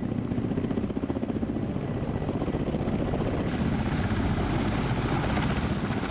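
Ka-52 Alligator attack helicopter's coaxial rotors and engines running in flight, a steady rapid rotor chop. About halfway through, the sound turns brighter and a thin high whine joins.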